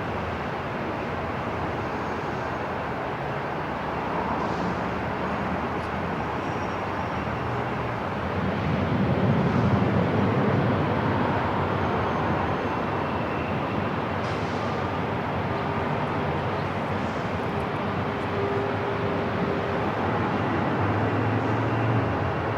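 Airport ambience: a steady rush of background noise, with a low rumble that swells about eight seconds in and eases off a few seconds later.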